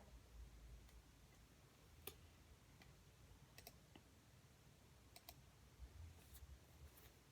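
Near-silent room tone with a handful of faint, sharp clicks and taps at irregular intervals, like small objects handled at a desk.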